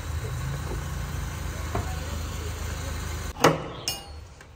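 A car engine running steadily at low revs for about three seconds. It cuts off abruptly and is followed by two sharp metallic clacks, the second with a short ring, as a steel barrel-bolt latch on a wooden door is worked.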